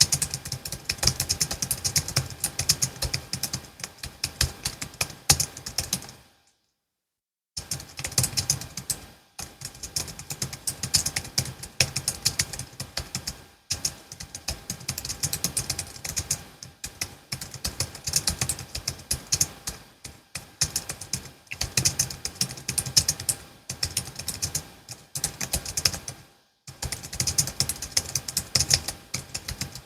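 Continuous fast typing on a Logitech MX Keys S low-profile keyboard, a dense run of light key clicks. It breaks off into about a second of silence around six seconds in, with a few shorter pauses later.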